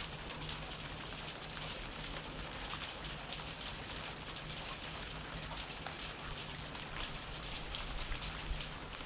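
Steady rain falling: a constant hiss, with the ticks of individual drops landing throughout.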